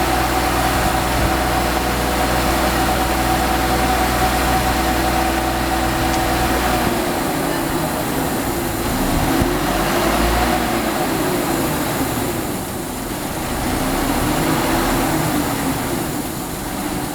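Tadano truck crane's diesel engine running steadily, then from about seven seconds in revving up and settling back several times.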